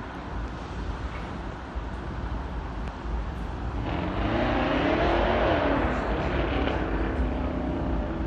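CTA 5000-series rapid transit train passing, its traction motors whining in tones that rise and then fall, over wheel and track noise. It swells about four seconds in and peaks near the middle.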